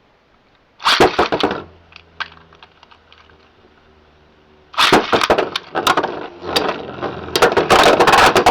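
Beyblade X spinning tops battling in a plastic stadium: a burst of clattering as they land and collide, then a faint steady spinning hum with a few light ticks. Partway through comes a long run of rapid clicking and clashing as the tops strike each other and the stadium.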